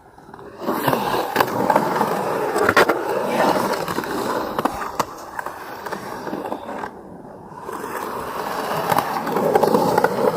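Skateboard wheels rolling and carving fast on concrete, with sharp knocks and clacks along the way. The rolling picks up about half a second in, dips briefly around the middle and builds again near the end.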